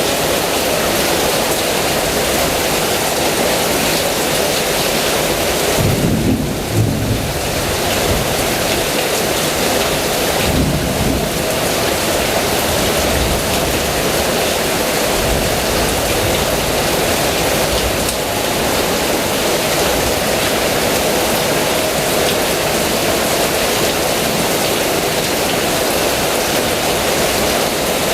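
Heavy rain falling in a steady, dense hiss, with two short low rumbles of thunder about six and eleven seconds in.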